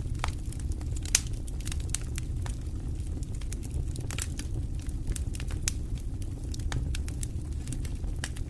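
Wood fire crackling in a fireplace: irregular sharp pops and snaps, one louder pop about a second in, over a steady low rumble of the flames.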